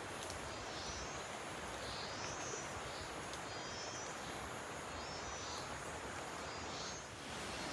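Forest ambience: a steady background hiss with a small bird repeating a short, soft call about once a second, and faint high insect trills.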